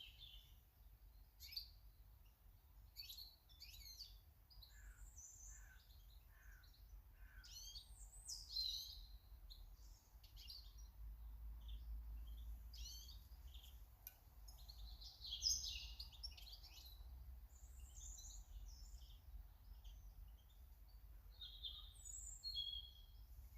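Garden birds chirping and calling: many short, high chirps and twittering notes follow one another throughout, over a faint low rumble.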